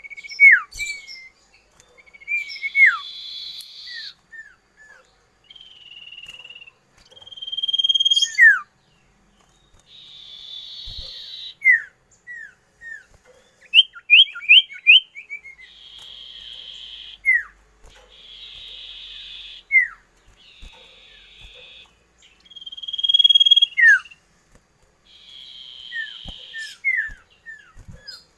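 Iora (cipoh) singing a varied song: buzzy trills a second or so long, alternating with clear whistles and quick strings of downward-slurred notes, repeated again and again.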